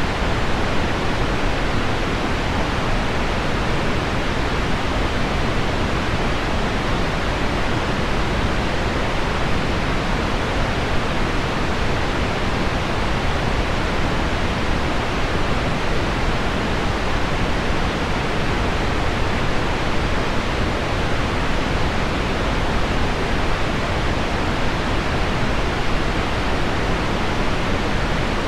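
Steady, unchanging noise of heavy rain on window glass blended with deep pink noise, weighted toward the low end.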